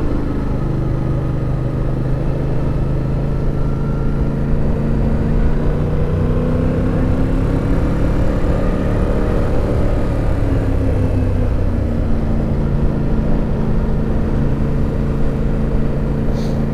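Yamaha FZ-07's parallel-twin engine running at low speed under wind rumble; the engine note rises about eight seconds in and eases back down a few seconds later.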